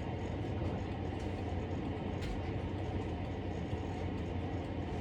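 Steady low mechanical hum with no change in level, the kind a running machine makes.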